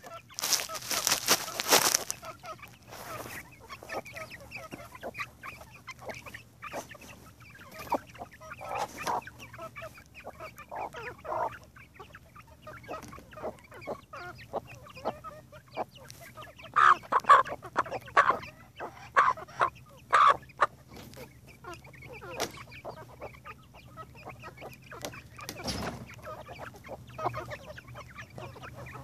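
Free-ranging chickens clucking, with short scattered calls throughout and a louder run of calls about two-thirds of the way in. A loud rushing noise fills the first two seconds.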